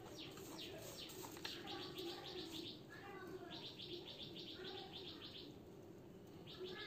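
Faint birds chirping in the background, with several runs of rapid, evenly repeated high notes like a trill.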